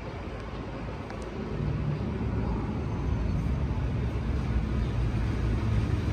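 Road traffic noise: a low vehicle rumble over a steady hiss, growing louder from about a second and a half in.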